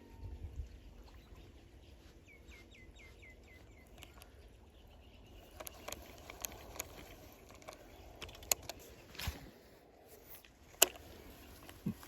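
Outdoor ambience with a bird calling a quick run of about six falling chirps, followed by scattered clicks and knocks, the loudest a sharp click near the end.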